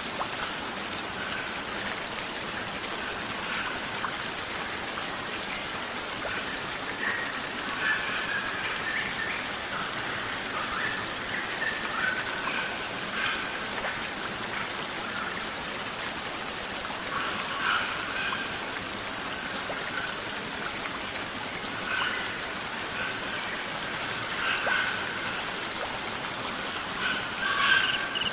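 A steady, rain-like hiss of nature sound with short bursts of small songbird chirps and trills breaking in every few seconds, the loudest near the end. It is a layered bird-therapy mix of warbler and ciblek (bar-winged prinia) song over ambience.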